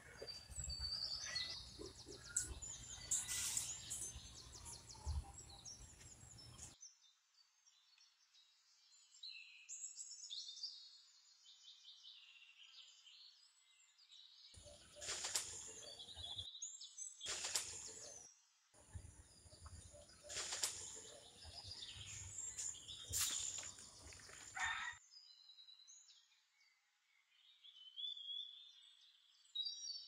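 Small birds chirping and twittering on and off, with a few short noisy bursts about halfway through.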